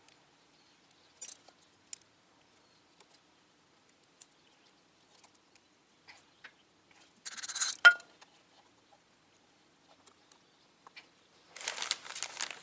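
Small metal parts being handled: scattered light clicks and clinks, with two short bursts of rattling and scraping, one about two-thirds of the way in with a sharp click inside it and one near the end.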